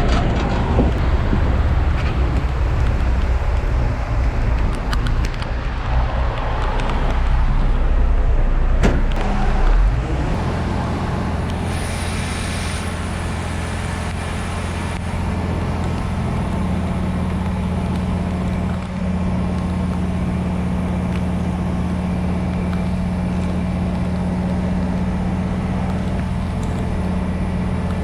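Heavy diesel truck engine running. For about the first ten seconds it is rough and rumbling, with a couple of knocks, then it settles into a steady, even hum. A brief hiss comes about twelve seconds in.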